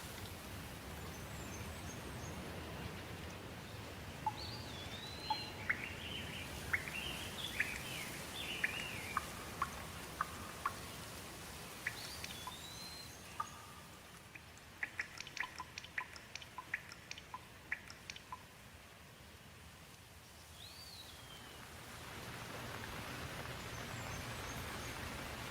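Rain falling steadily, with birds calling over it: rising-and-falling whistled notes and a burst of chirps a few seconds in. The rain thins in the middle while a run of short sharp ticks sounds, then picks up again near the end.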